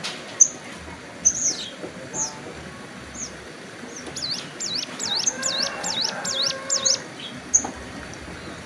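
Ciblek gunung songbird singing: sharp, high single chirps, then about four seconds in a fast run of high notes that sweep up and down, about three a second for three seconds, before it goes back to single chirps.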